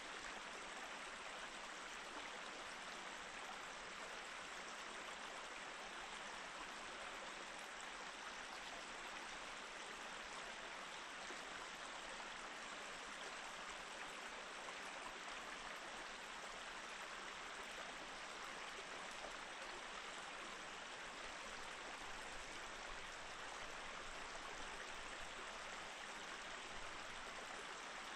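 Small mountain stream flowing over rocks between snowy, partly frozen banks: a steady, even rush and babble of water that does not change.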